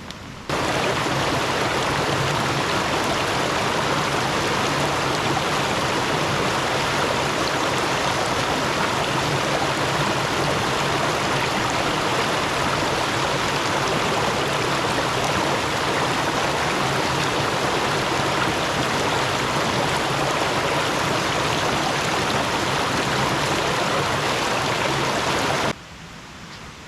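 Waterfall: loud, steady rush of falling water, starting abruptly just after the start and cutting off suddenly near the end.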